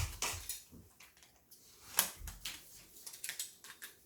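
Plastic Plarail toy train track pieces clicking and knocking as they are handled and fitted together: a few sharp clicks, with a cluster of small taps near the end.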